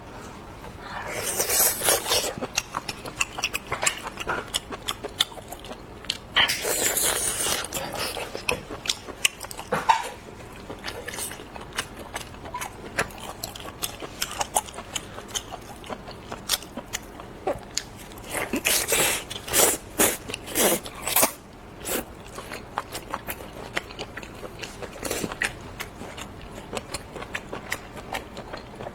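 Close-miked eating of laozhi marinated seafood: many small wet clicks and smacks of biting and chewing. There are three longer noisy bursts of a second or two each: a couple of seconds in, around seven seconds, and again around nineteen to twenty-one seconds.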